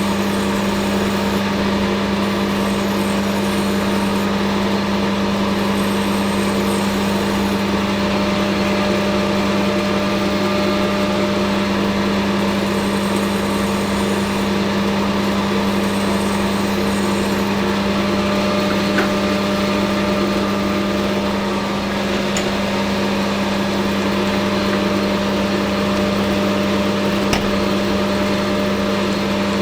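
Hafco Metal Master AL960B metal lathe running steadily with a constant hum.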